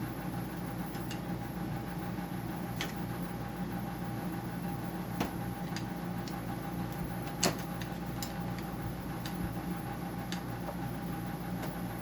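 Scattered light clicks and knocks of plastic dehumidifier parts being pried off and handled, the sharpest a little past halfway, over a steady machine hum.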